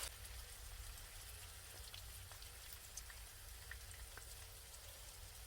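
Faint sizzling of beef intestines grilling in a pan, with scattered small pops and crackles.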